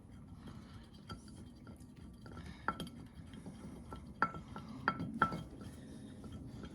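Metal hand tool, a 12 mm spanner or socket, clinking and tapping against the bolts of a Mazda MX-5 engine's air-conditioning bracket while they are undone: several separate sharp, lightly ringing clinks, the loudest cluster a little past halfway.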